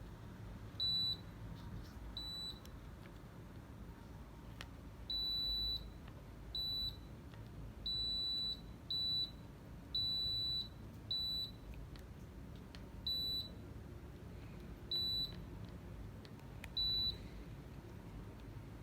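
Mini split air conditioner's indoor unit beeping about eleven times at uneven intervals, a mix of short and longer single-pitch beeps, as it acknowledges remote-control button presses.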